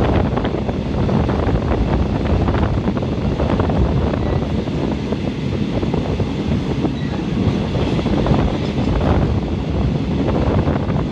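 Running noise of a moving passenger train heard from inside the carriage: a steady, loud rumble of the train travelling along the track.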